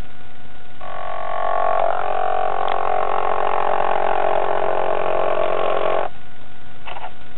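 Model train's small electric motor buzzing loudly. It starts about a second in, runs for about five seconds and cuts off suddenly, followed by two light clicks.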